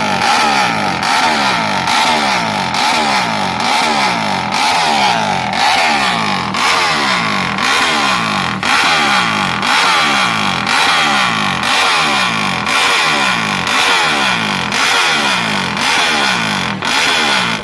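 Yamaha MX King motorcycle's single-cylinder fuel-injected engine, bored to 200cc and tuned by HO2 Racing, revved over and over in quick blips about once a second, each rev rising in pitch and then dropping back.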